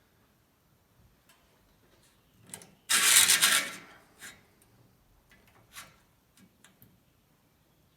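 Sheet-metal shrinking on a steel door patch panel: a shrink is pressed into the panel's edge, heard as one loud burst of about a second about three seconds in, with a few faint clicks of handling around it.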